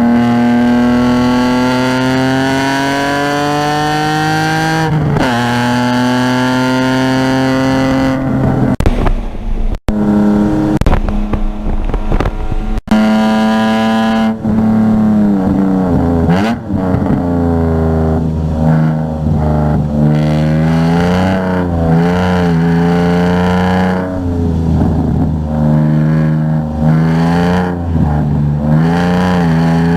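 Car engine driven hard on a race track: revs climb steadily, drop at a gear change about five seconds in and climb again, then rise and fall over and over as the throttle comes on and off through a run of corners.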